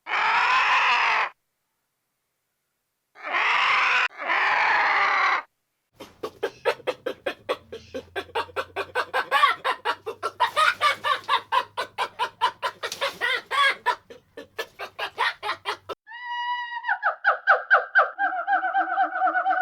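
A run of cut-together farm-animal clips: three short, harsh calls with dead silence between them, then about ten seconds of chickens clucking in quick repeated notes, and near the end a steady, fluttering tonal call.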